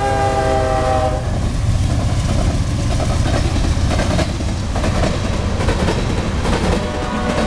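A freight locomotive's multi-note air horn sounds, dips slightly in pitch and stops about a second in. Then the wheels of fast-moving CSX tank cars pound over a rail joint in a steady clickety-clack rhythm over a continuous rumble.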